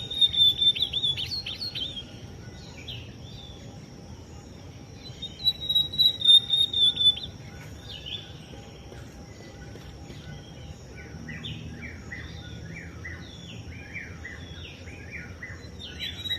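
Ultramarine grosbeak (azulão) singing: a loud phrase of quick high sweeping notes at the start and another about five seconds in. Softer, repeated chirping notes follow through the second half, over a steady insect drone.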